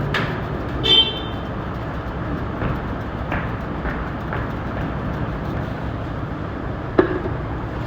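Steady road-traffic noise, with a sharp click at the start, a brief metallic clink about a second in, a few faint ticks, and a sharp knock near the end.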